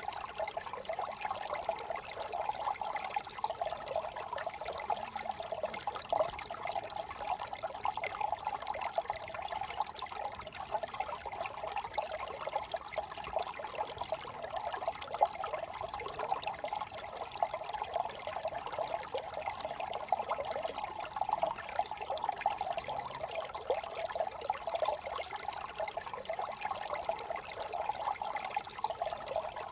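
Small brook trickling over stones, a steady babble of running water.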